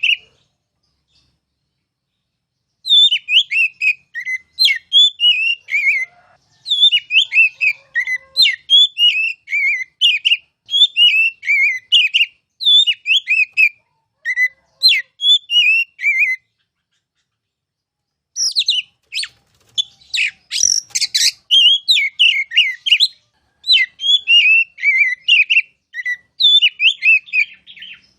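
Oriental magpie-robin (kacer) singing in fast runs of short, falling whistled notes, phrase after phrase with a few brief silent pauses. About twenty seconds in, a louder, harsher cluster of notes breaks in.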